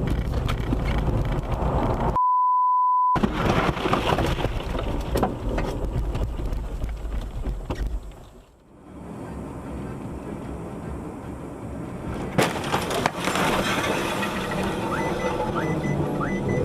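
Road noise inside a car, cut for about a second, roughly two seconds in, by a steady high censor beep. The sound briefly dips away near the middle, and two sharp knocks come a few seconds later.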